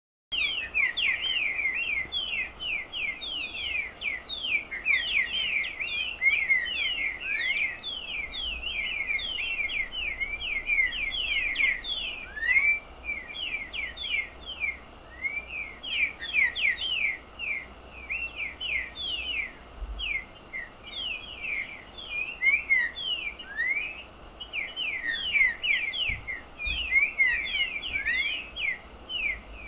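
Picharro singing: a fast, continuous twittering of short downward-slurred whistled notes, with a brief lull about halfway through.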